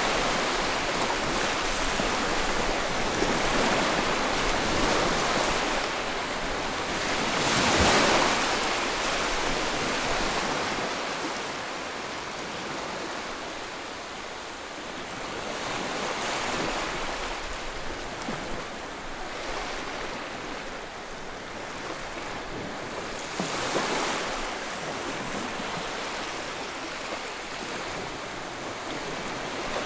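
Ocean waves breaking on the shore and washing back, a continuous surf wash that swells with the loudest break about 8 seconds in and another near 24 seconds.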